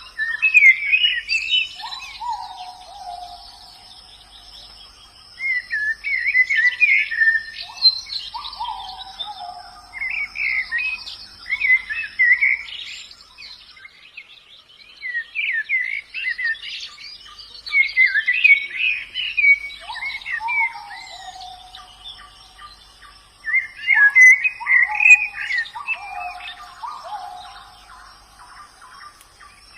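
White-eyes (pleci) singing: bursts of quick, high twittering song every few seconds, with lower descending whistled notes among them.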